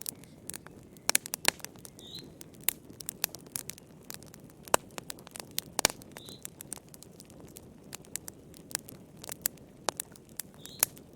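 Fire crackling in a fireplace: irregular sharp pops and snaps, some in quick clusters, over a soft steady low rumble.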